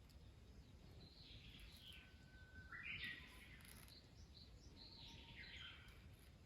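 Faint bird calls: several short, falling chirps and twitters over low background noise, the strongest about three seconds in.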